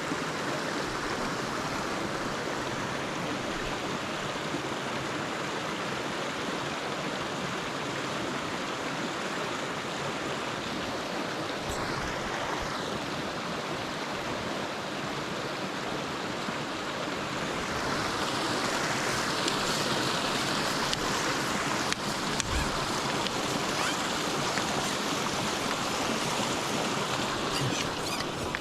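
Mountain stream rushing steadily over rocks, growing somewhat louder about two-thirds of the way in.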